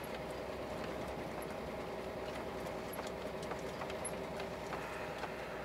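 Scania truck's diesel engine running steadily under load as the empty rig climbs a slippery grade, heard from inside the cab as an even drone.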